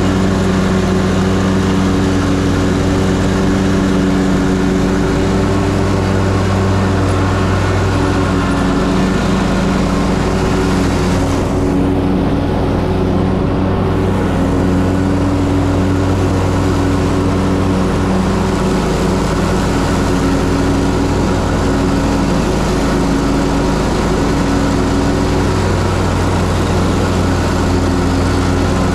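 Ferris Z3X 37 hp zero-turn mower's engine running steadily under mowing load, heard from the operator's seat. The upper hiss briefly thins about twelve seconds in, then returns.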